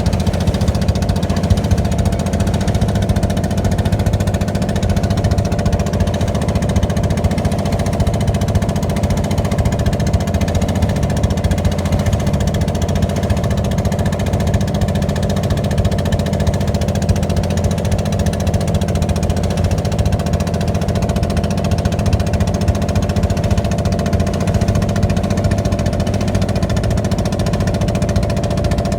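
An engine running steadily at constant speed: a continuous low drone with a higher hum above it, unchanging throughout.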